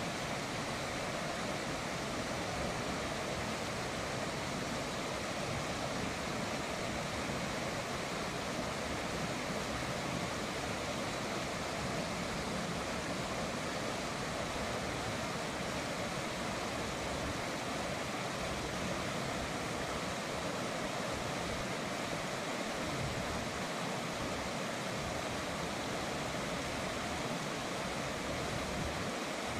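River water flowing, a steady even rush with no breaks or distinct splashes.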